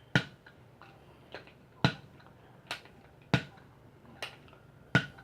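Sharp plastic clicks from a Nerf toy blaster being handled: four louder clicks about a second and a half apart, with fainter ones in between.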